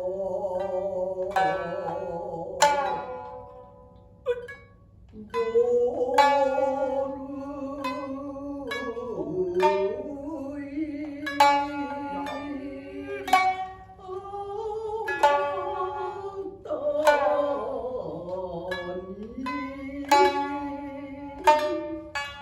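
Shinnai-bushi jōruri accompaniment: the main shamisen and the higher-tuned uwajōshi shamisen pluck sharp, ringing notes every second or two. Under them, long held vocal tones waver and slide in pitch.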